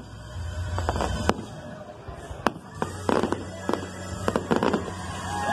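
Aerial fireworks shells bursting overhead. A few single sharp bangs come in the first half, then from about three seconds in a fast, dense run of crackling reports.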